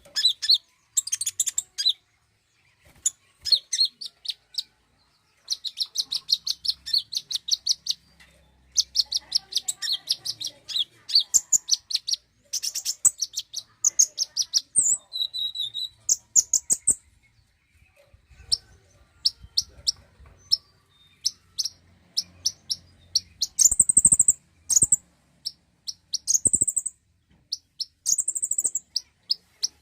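Konin, a small sunbird-type songbird, singing rapid, high chirping trills in phrases of a few seconds separated by short pauses.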